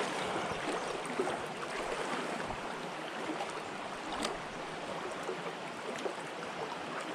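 River water flowing steadily over stones, an even rushing hiss, with a couple of faint clicks.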